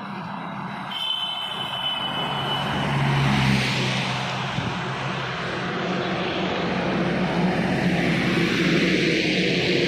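Heavy truck engine and tyre noise on a highway, a steady hum that swells louder about three seconds in and stays loud as the vehicle passes close.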